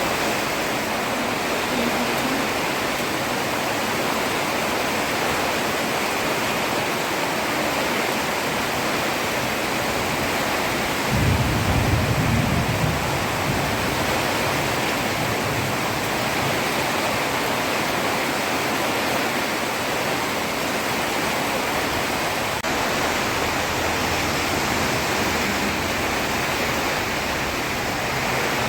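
Heavy rain falling steadily on a road, a dense even hiss. About eleven seconds in, a low rumble rises over it for a couple of seconds and fades.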